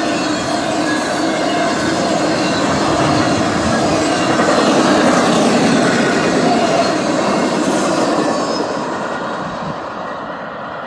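Empty intermodal well cars and spine cars rolling past on their steel wheels, a dense steady rumble of wheels and trucks on the rail. It swells slightly in the middle and fades over the last couple of seconds as the end of the train moves away.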